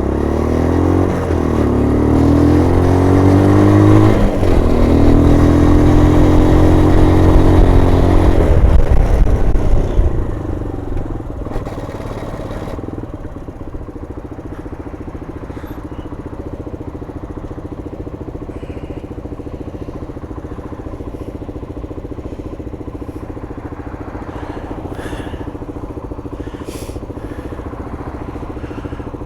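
A 125 cc adventure motorcycle's engine pulling up through the gears, the note climbing and dropping back at two gear changes about one and four seconds in. About ten seconds in it eases off and slows, then it settles to a quieter steady idle.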